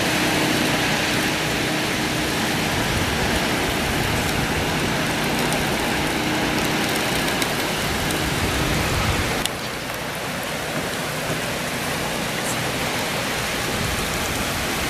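Hurricane rain and wind, a steady loud rush, with a generator's faint steady hum underneath for the first half. The sound drops a little about nine and a half seconds in.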